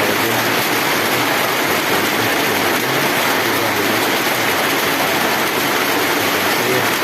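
Heavy rain, a steady loud hiss.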